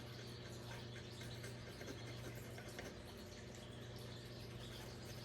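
Quiet room tone: a low steady hum with faint scattered ticks and light scratchy noise.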